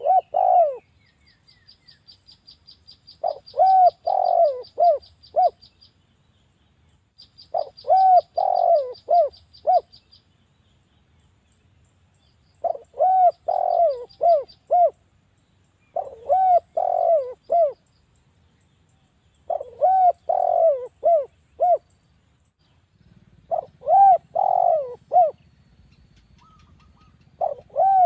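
Spotted dove (derkuku) cooing: a phrase of four or five low coos, repeated about every four seconds. At times a fast, high-pitched ticking trill from a smaller bird runs behind it.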